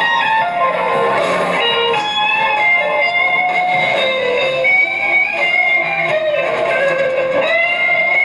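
Band music with electric guitar to the fore, playing a melodic line of sustained notes over bass. A long held high note comes in near the end.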